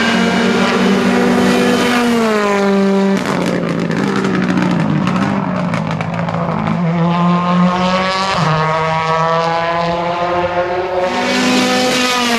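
Rally car engine at high revs on a special stage, its pitch climbing and dropping through several gear changes and lifts. A run of sharp crackles comes about three to six seconds in.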